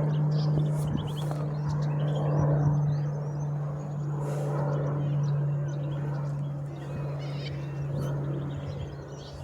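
Pilatus PC-21 turboprop trainer departing: a steady propeller drone at one pitch, slowly fading as it goes away. Bird calls chirp over it.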